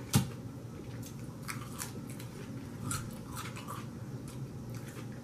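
Close-miked chewing of Caesar salad, with soft crunches of lettuce and croutons scattered through, and one sharp click near the start.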